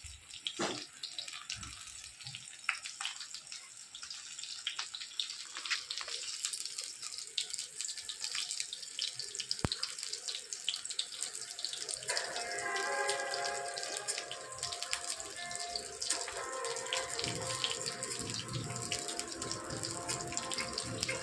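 Besan-battered bottle gourd slices sizzling in hot oil in an aluminium kadhai: a steady hiss dotted with many small pops and crackles. Music comes in about twelve seconds in.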